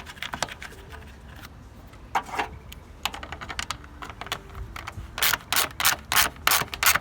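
Hand ratchet wrench driving in the fan shroud bolts: scattered clicks at first, then from about five seconds in a run of quick ratcheting strokes, about three a second.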